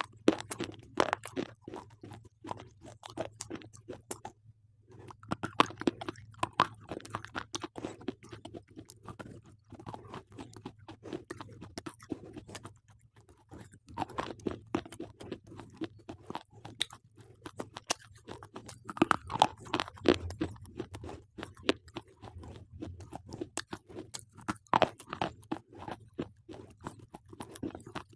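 A person biting and chewing slate pencils: dense, irregular crunching, with two short pauses, one about four seconds in and one near the middle.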